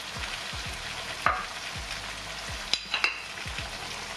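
Battered chicken pieces sizzling in sauce in a ceramic-coated wok while being stirred with a plastic spatula, which knocks against the pan three times a little past the middle.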